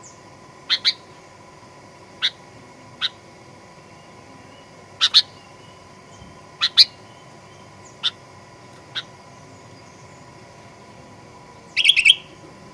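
Sooty-headed bulbul (kutilang) giving short, sharp call notes, singly and in quick pairs, with a rapid burst of several notes near the end. A faint steady hum lies underneath.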